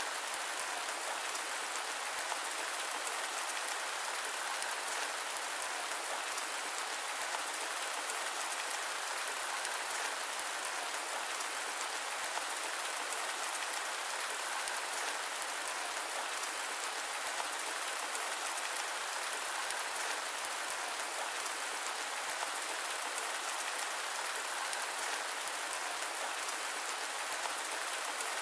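Steady rain, an even hiss of countless drops that neither swells nor breaks.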